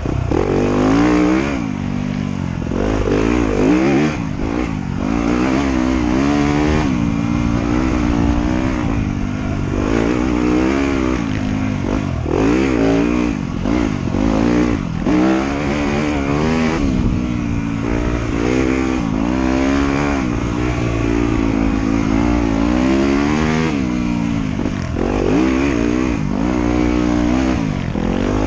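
Motorcycle engine under way, its pitch rising and falling every second or two as the throttle is opened and closed again and again.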